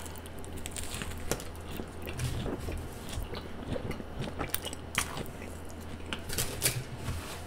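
Close-miked chewing of a mouthful of Subway spicy Italian sub, with irregular sharp mouth clicks over a steady low hum.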